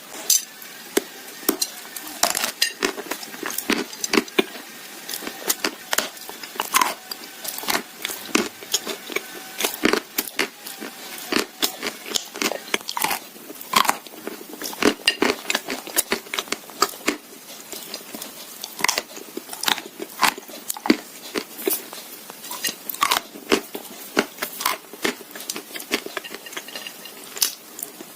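Dry Turkestan edible clay being bitten and crunched between the teeth, in irregular sharp crunches several times a second, with chewing in between.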